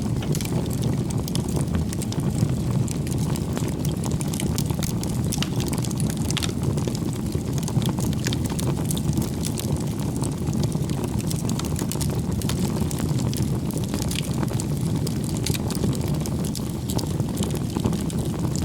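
Firewood campfire burning, with a steady low rumble of flames and many sharp crackles and pops from the wood throughout.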